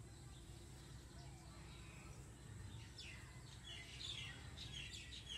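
Faint birds chirping in the background, a string of short high chirps starting about halfway through, over low steady outdoor background noise.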